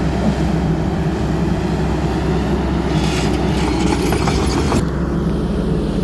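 XCMG 140's Cummins diesel engine running steadily, with metallic clanks and squeaks for a couple of seconds in the middle.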